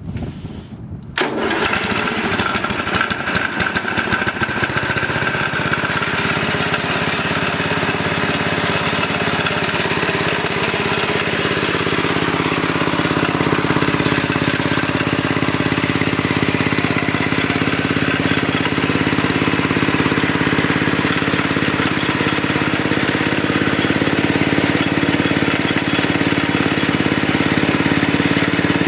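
Freshly rebuilt single-cylinder engine from a 1979 Sears generator, fitted to a Sears ST10 garden tractor, starting about a second in and then running steadily. It has a new piston, rings and rod and is still in its break-in period.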